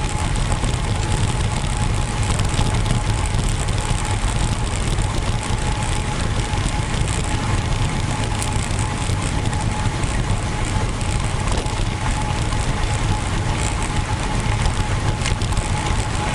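Steady rush of wind on the microphone with tyre and road noise from a road bike being ridden. A faint, steady thin whine runs underneath.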